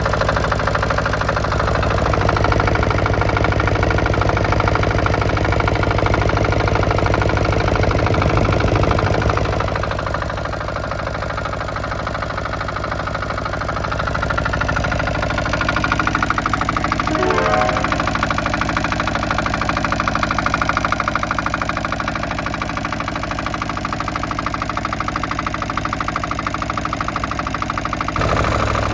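Komatsu PC03 mini excavator's diesel engine running, louder for the first ten seconds and then settling to a lower, steady idle before rising again near the end. A short rising tone sounds about 17 seconds in.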